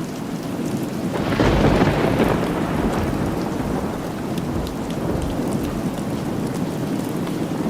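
Steady rain with a roll of thunder that breaks in about a second in, loudest in its first second or so, then rumbles and fades slowly.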